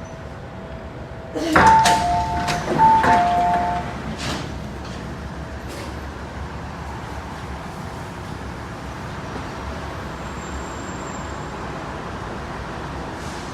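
MTR M-Train at a station: the doors open with a clunk about a second and a half in, and a two-note chime, high then low, sounds twice. Steady hum from the train's equipment follows.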